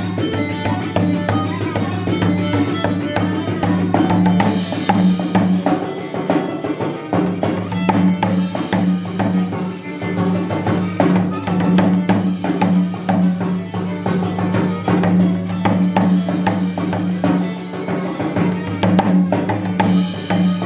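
Live improvised instrumental music in a Korean traditional style: a fast run of percussion strokes over a steady low drone, with shifting melodic notes above.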